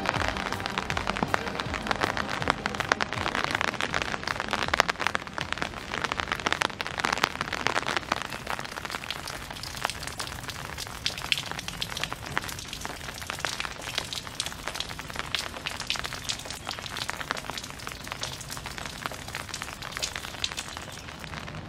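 Steady rain falling on pavement and stone, a constant hiss dense with the small hits of individual drops.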